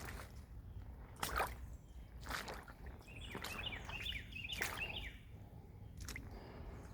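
Footsteps on rough ground, a few separate steps a second or more apart, while a bird calls a quick run of short chirps in the middle.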